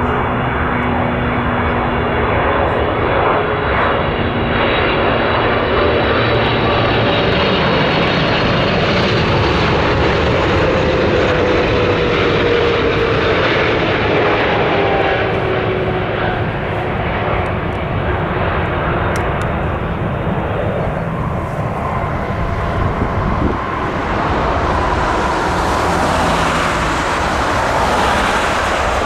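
Jet airliner engines running loud and steady as the aircraft passes, with a whine that glides down in pitch midway through.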